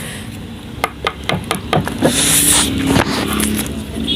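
Eating instant noodles with chopsticks: light clicks and taps throughout, and a short hissing slurp of noodles about two seconds in.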